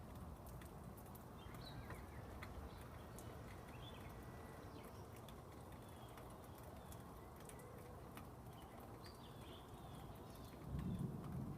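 Quiet storm ambience: a steady faint low rumble with scattered short bird chirps and light clicks like dripping, then a louder low rumble of distant thunder swells in near the end.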